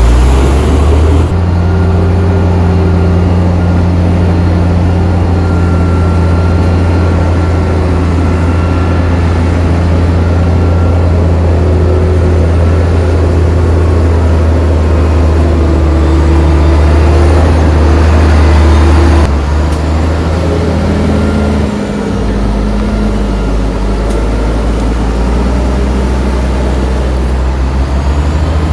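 Heavy diesel engine of earthmoving equipment running loud and steady at high revs. About 19 seconds in its note changes, and around 22 seconds it drops to a lower, slower running speed.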